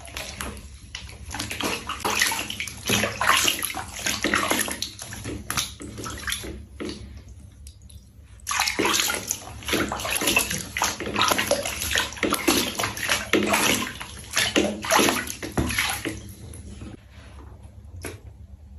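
Water sloshing and splashing in a tub as a cat is bathed, in irregular bursts with a short pause about eight seconds in. It dies down near the end.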